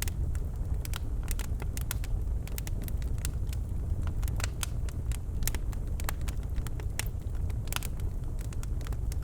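Birchwood fire burning in a fireplace: a steady low rumble of the flames with frequent sharp, irregular crackles and pops from the burning logs.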